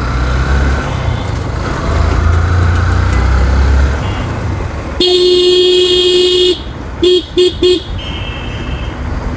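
A vehicle horn sounds one long honk about five seconds in, then three short beeps, over the low rumble of a motorcycle ride.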